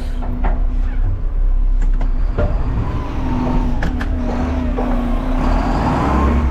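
Front-load garbage truck's diesel engine running hard to drive the hydraulics as the forks work a 2-yard container. There is a steady whine, a higher tone rising from about three seconds in, and a few metal clanks.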